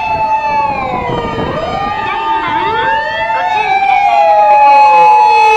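Several emergency-vehicle sirens wailing over one another: slow rises and falls in pitch on top of a steady held tone. They grow louder about four seconds in.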